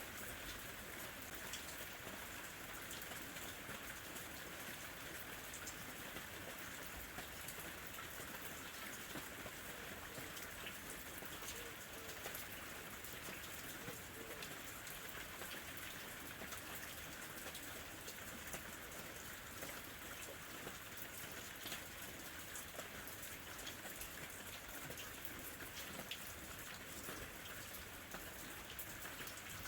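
Steady gentle summer rain falling: an even hiss dotted throughout with the ticks of individual drops.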